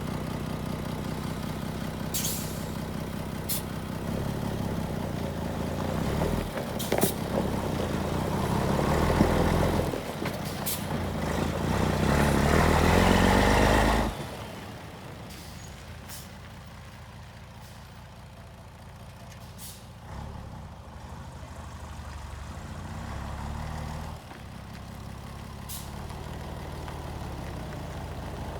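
Scania P112 truck's diesel engine running, held at raised revs that climb for several seconds, then dropping back to a steady idle about midway. Several short sharp clicks come through the engine sound.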